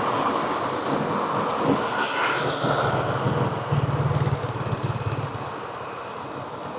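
Street traffic passing: vehicle engine and tyre noise, one vehicle going by about four seconds in, then the traffic eases off toward the end.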